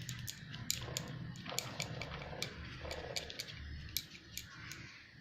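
Quick, irregular dabbing and scratching taps of a painting tool on paper as texture is worked in, over a faint low room rumble.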